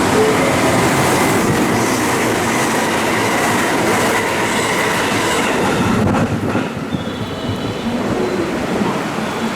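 Electric commuter train running along the station platform at close range: a loud rumble and clatter of wheels over the rails, with a faint high whine. The sound eases off a little about six seconds in.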